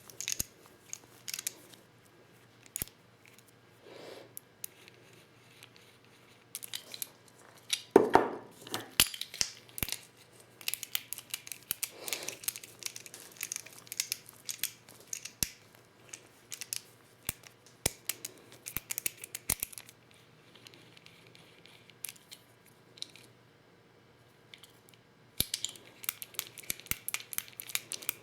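Hand reloading of 12-gauge shotgun shells with a Lee Loader kit: many small sharp clicks, taps and rustles as hulls, wads and tools are handled, with one louder knock about eight seconds in and a quieter stretch near the end.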